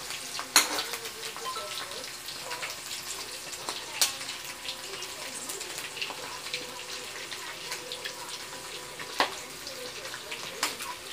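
Shrimp frying in oil in an aluminium wok, a steady sizzle and crackle, stirred with a metal ladle that scrapes and knocks against the pan; sharp knocks come about half a second in, around four seconds in, and a loudest one about nine seconds in.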